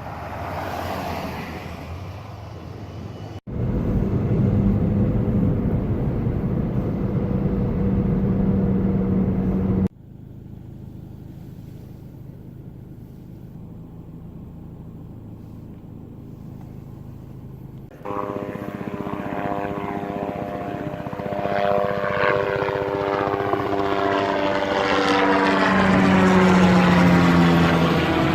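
Propeller airplane engine droning overhead, heard in abrupt cut segments. In the last part it passes close by, louder and rising to a peak near the end before fading.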